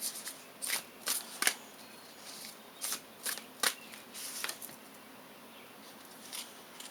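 A deck of oracle cards being shuffled by hand: a string of short, sharp papery snaps, bunched in the first few seconds, then fewer and fainter toward the end.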